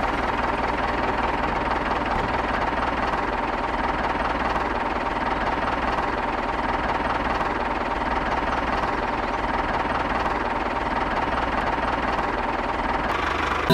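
Miniature DIY tractor's small engine running steadily at an even speed, without change.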